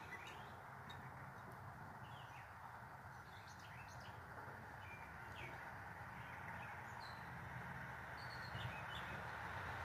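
Birds chirping faintly: short, scattered high chirps over a steady low outdoor background.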